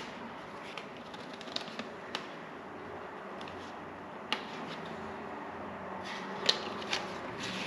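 Scattered light clicks and taps of hand work, a few a second at most, with a sharper click about six and a half seconds in.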